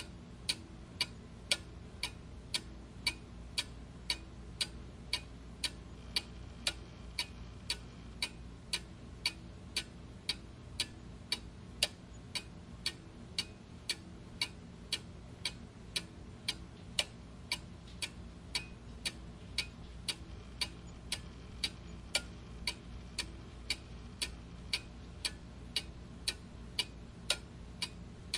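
Clock ticking steadily, about two ticks a second, the ticks alternating slightly in strength like a tick-tock, over a faint low hum.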